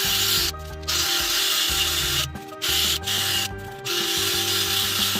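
Drill-driven foam buffing pad rubbing on a plastic headlight lens, a steady hiss that stops briefly three times. This is the final polishing step of a headlight restoration.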